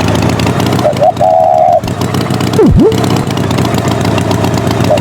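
Cartoon tractor engine sound running steadily and loudly, with a short warbling tone about a second in and a quick swoop down and back up in pitch past the middle, repeating as a loop.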